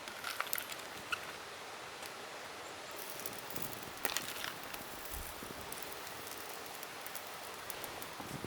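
Wood campfire crackling: scattered sharp pops and clicks, a few louder ones about four seconds in, over a steady hiss.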